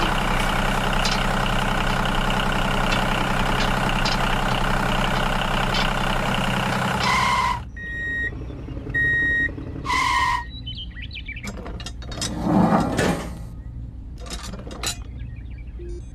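Toy tractor's diesel engine sound running steadily, cutting off about seven and a half seconds in. Short high reversing beeps follow as it backs up, then a brief hiss a little later.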